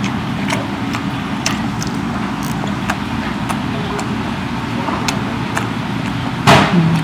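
A person chewing sushi close to a clip-on microphone: scattered soft mouth clicks over a steady low background hum. A louder short breathy sound comes near the end, followed by a brief low hum.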